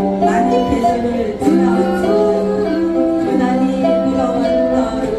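Ukulele ensemble strumming a song while the group sings along.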